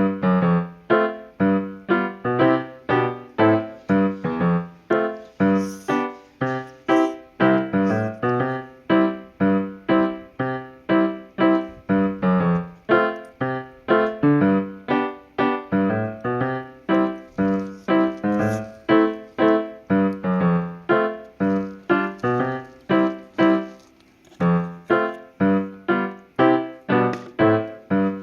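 Background piano music: a steady run of struck notes, about two a second, each fading quickly.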